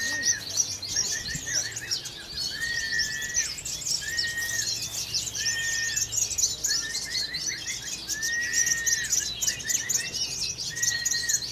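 Several caged songbirds singing at once in a songbird competition, a dense mix of high chirps and trills. Through it one bird repeats a clear, level whistled note, about half a second long, roughly every second or so.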